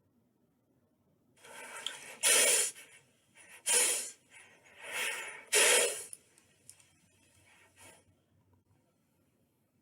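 A horse breathing out hard through its nostrils: four loud, noisy breaths, a second or so apart, with softer breathing between them.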